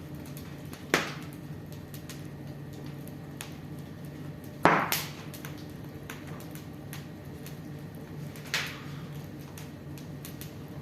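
Wood fire crackling in a fireplace, with faint ticks over a steady low hum and three sharp pops: about a second in, about halfway through, and near the end.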